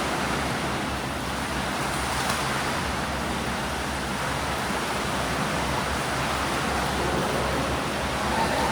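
Swimming pool ambience: a steady rush of water churned by breaststroke swimmers, with a faint low hum underneath.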